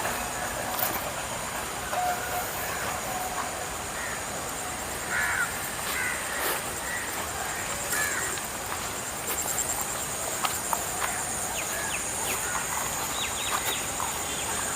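Outdoor ambience: a steady high-pitched insect drone, with a few short bird calls about five to seven seconds in.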